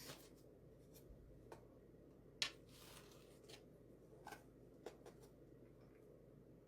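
Faint handling noises while fabric is arranged on a small wooden craft shelf: scattered small clicks and taps, the sharpest about two and a half seconds in, followed by a short rustle.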